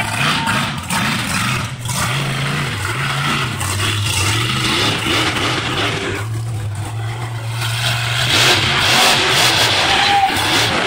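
Monster truck engine revving up and down in pitch. From about eight seconds in, a broad rushing noise swells louder.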